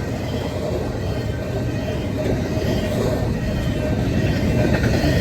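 A train rolling past, its wheels on the rails making a steady, dense rumble that grows slowly louder toward the end.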